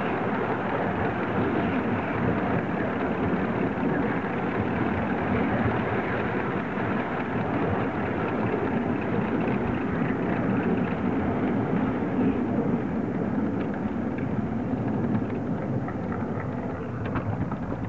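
3½-inch gauge live steam Prairie tank locomotive running with the regulator open: a steady, dense working noise that eases off in the last couple of seconds.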